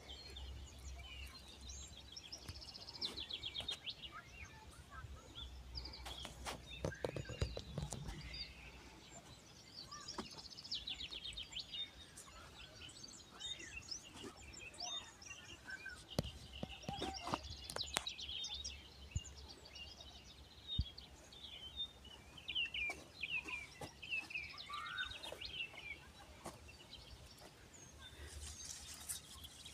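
Small birds chirping and trilling on and off, with a few sharp knocks and scuffs along the way.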